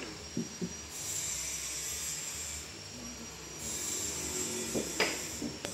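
Sawmill machinery running with a high steady hiss that cuts out for about a second in the middle and then resumes, with a few light knocks.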